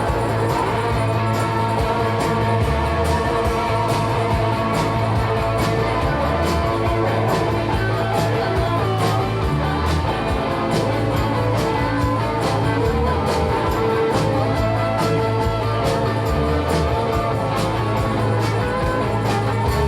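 Live rock band playing an instrumental passage: electric guitars over a steady bass line and driving drums with regular cymbal hits.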